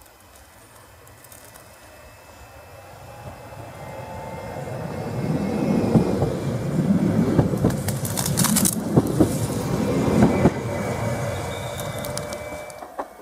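Stadler FLIRT electric multiple unit approaching and passing close by: its rumble grows over the first few seconds, is loudest for about five seconds in the middle with sharp clacks of the wheels over rail joints, then fades as it moves off.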